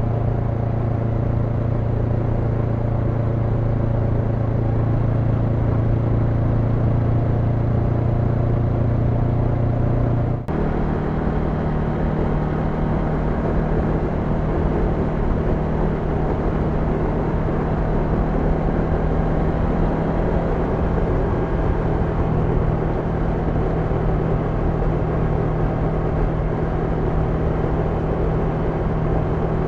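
Honda NX500's 471 cc parallel-twin engine running steadily under way, over wind and road noise. About ten seconds in the sound dips for a moment and the engine note then settles at a higher pitch.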